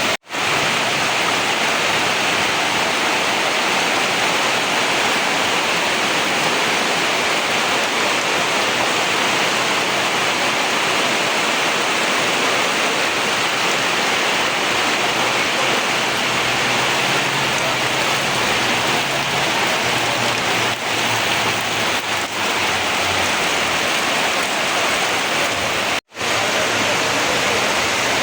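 Heavy rain falling steadily, a dense, even downpour. The sound cuts out for an instant twice, at the very start and about 26 seconds in.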